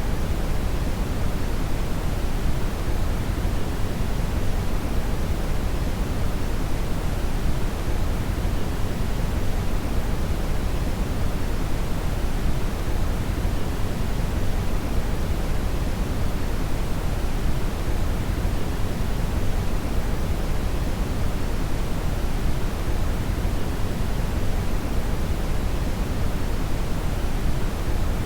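Synthetic brown (red) noise: a steady, deep rushing hiss weighted to the low end, with no changes or events.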